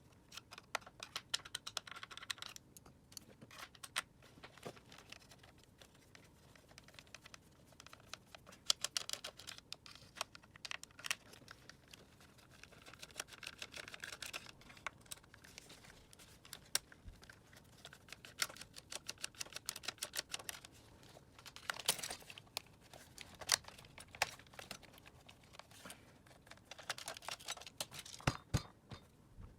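Irregular clicks, taps and short scrapes of hard plastic parts and small tools being handled as a Dyson vacuum cleaner is taken apart by hand.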